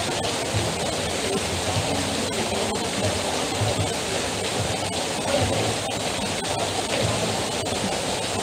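Heavy rain falling steadily, with runoff pouring off the edge of an overhead canopy: a dense, even rush of water.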